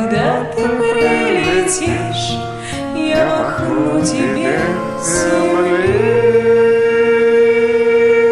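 Singing over a karaoke backing track: a wordless vocal line slides up and down in ornamented runs, then settles about six seconds in on one long held note.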